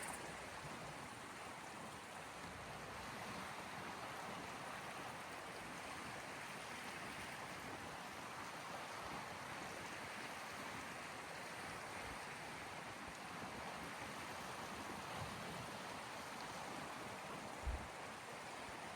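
Small sea waves washing on the shore, a steady soft hiss of water. There is one brief low thump near the end.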